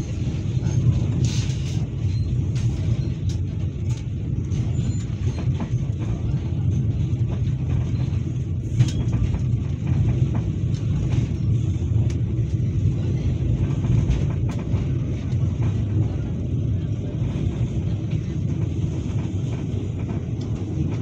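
Inside a moving passenger train carriage: the steady low rumble of the train running on the rails, with scattered sharp clicks and knocks.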